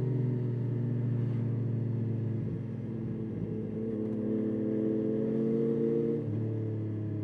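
Yamaha Tracer 9's 890 cc inline-three engine running at light throttle while riding. The engine note eases down, rises gently, then steps down suddenly about six seconds in.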